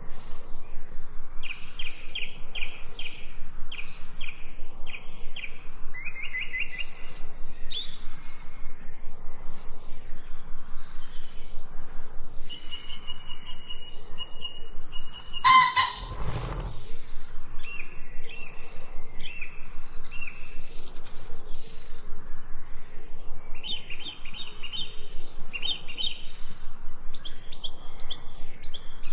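Several small birds chirping and singing in short, quickly repeated phrases over a fast, even pulsing in the background. About halfway through there is one loud, brief call followed by a low thud.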